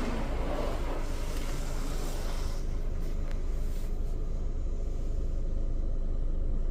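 Inside a car in an automatic car wash: a steady low rumble, with a spray hiss that dies away about two and a half seconds in as the pre-soak pass ends and the soap is left to soak.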